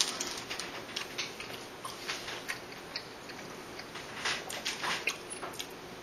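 A person chewing and eating a double cheeseburger close to the microphone: a string of short, irregular clicks and smacks from the mouth.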